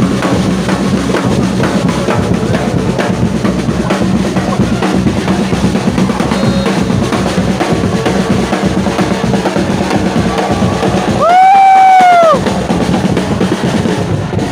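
Supporters' drums beaten in a fast, steady rhythm. About eleven seconds in, a loud horn blast of about a second, rising and then dipping in pitch, drowns out the drumming.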